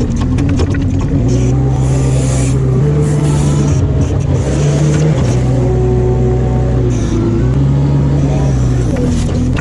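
A vehicle engine running, its speed stepping up and down a few times, with light rattling over it.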